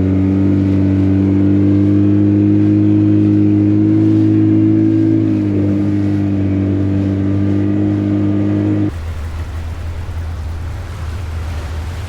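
Motorboat engine running steadily under way, its pitch rising a little and then easing back about five seconds in. It breaks off abruptly about nine seconds in, replaced by rough wind and water noise.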